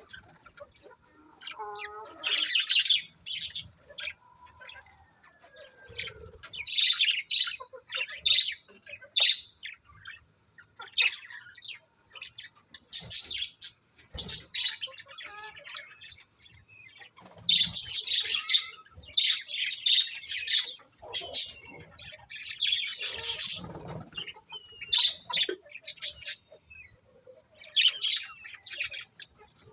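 Budgies chirping in bursts of quick, high chirps that recur every few seconds with short pauses between.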